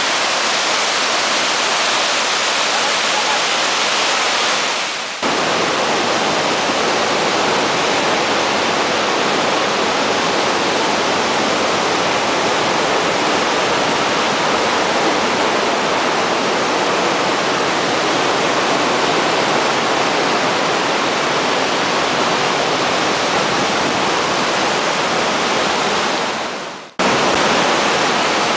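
Loud steady rush of fast-flowing floodwater, breaking off briefly about five seconds in and again near the end where the recording is cut.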